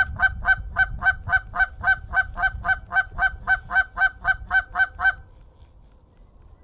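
Canada goose honks repeated rapidly and very evenly, about three to four a second, each call at the same pitch, cutting off abruptly about five seconds in.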